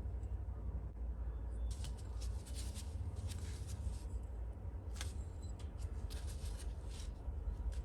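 Small parts being handled on a workbench: a quick run of light clicks, ticks and rustles in two busy stretches, over a steady low rumble.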